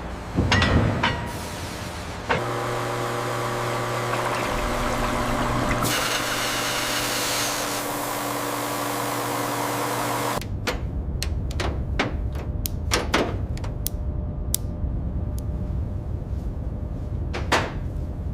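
A thump, then a cutting machine running with a steady hum of several tones, starting suddenly about two seconds in and cutting off about ten seconds in. A string of sharp clicks and knocks follows.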